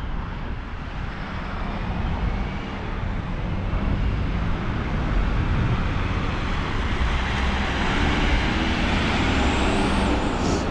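Road traffic noise: a motor vehicle approaching and going by, growing louder over the first several seconds. Wind buffets the microphone underneath.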